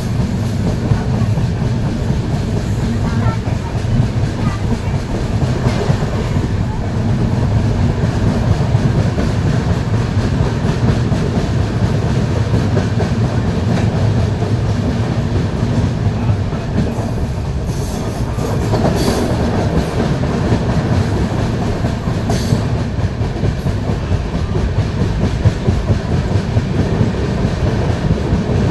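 Train running along the track: a steady low rumble with the wheels clacking over rail joints, and a few brief hissing surges in the second half.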